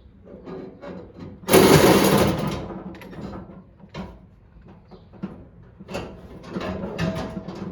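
Scattered clicks and knocks of tools and metal parts being handled during repair work, with one loud, rough, rattling burst lasting about a second, about one and a half seconds in.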